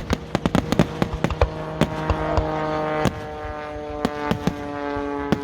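Aerial fireworks bursting and crackling: many sharp bangs and pops at an irregular pace, over a background of steady held tones.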